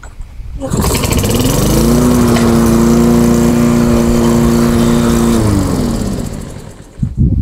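Tecumseh single-cylinder lawnmower engine starting, rising quickly to a steady speed and holding it for about three seconds, then winding down and stopping. A short clatter follows near the end.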